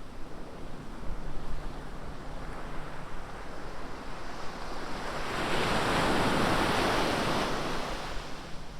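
Ocean surf: a wave breaks and washes up the shore, swelling about halfway in and fading near the end, with wind rumbling on the microphone.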